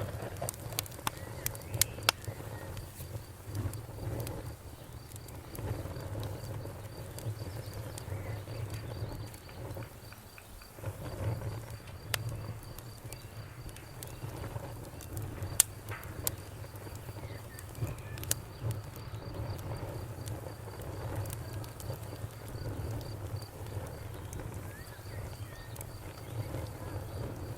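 Bonfire crackling, with sharp pops scattered throughout over a low, steady rumble of flame, the loudest pops about two seconds in and near the middle. Crickets chirp steadily in a faint, high, even pulse behind the fire.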